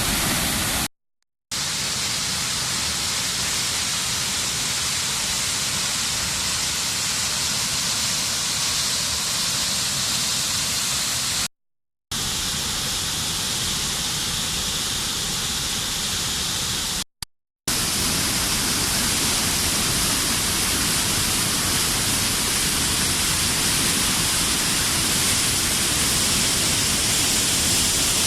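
Waterfall in heavy flow, swollen by cyclone rain: a steady rush of falling water. It drops out to silence three times, briefly, where the shots change.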